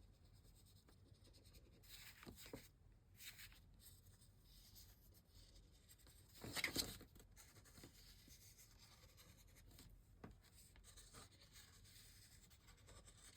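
Faint scratching of a fine-tipped 0.2 mm pen tracing outlines on watercolor paper, in short irregular strokes, with one brief, louder rustle about halfway through.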